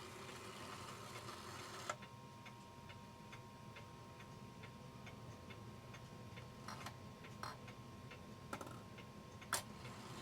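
Herschede clock movement giving faint, even ticks, about two or three a second, while its hands are turned round by hand, with a few louder clicks from the mechanism.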